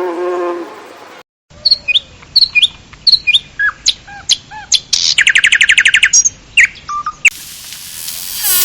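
Bird chirping: a string of short, sharp, mostly falling whistled notes, with a fast trill of about a dozen notes a second in the middle. A pitched call ends about a second in, and a steady high hiss takes over near the end.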